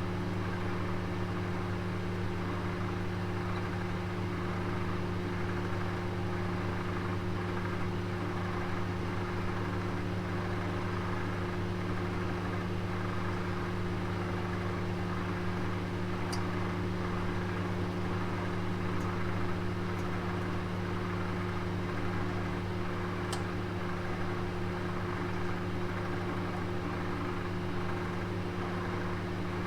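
Oven running with a roast cooking inside: a steady low hum with an even airy whir over it, and a few faint ticks in the second half.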